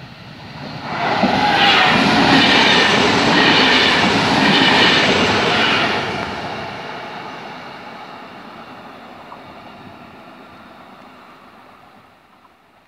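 Electric regional multiple-unit train passing close at speed, its wheels clattering over the rail joints, then fading steadily as it draws away. It turns loud suddenly about a second in and stays loud for about five seconds.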